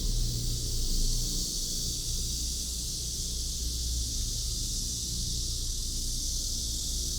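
Steady outdoor city ambience on a walk: a low rumble of distant traffic under an even high-pitched hiss, with no distinct events.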